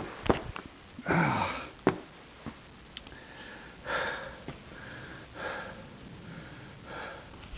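A person breathing heavily through the nose, a noisy breath about every second and a half with softer breaths in between.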